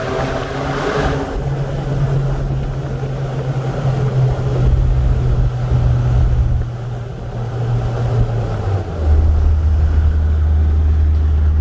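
Exhaust note of a 2.7 L EcoBoost twin-turbo V6 F-150 running through a 4-inch pipe and a Flowmaster Super 40 muffler with no resonator: a steady low drone that drops in pitch and gets louder about nine seconds in.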